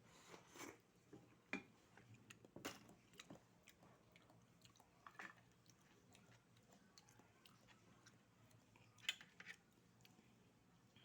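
A person eating oysters: faint chewing with scattered sharp clicks and taps. The loudest taps come about a second and a half in and again near nine seconds.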